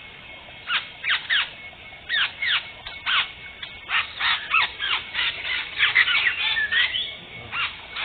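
White-rumped shamas giving a rapid series of short, harsh, sharply falling calls. The calls start about a second in, come in quick clusters, and grow denser toward the end.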